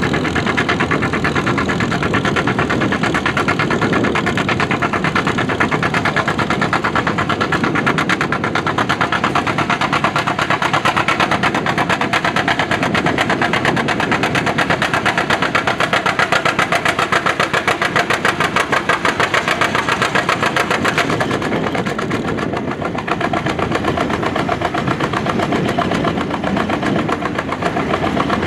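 Antique farm tractor engine running loud and steady at a tractor pull, with a fast, even firing beat. It eases off briefly about 22 seconds in.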